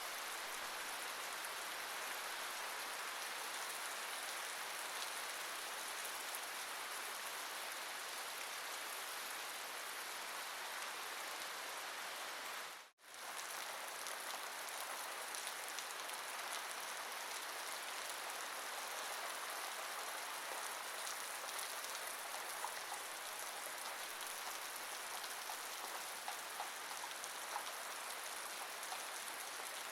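Steady rain falling, an even hiss with scattered small drop ticks, broken by a brief dip to near silence about halfway through.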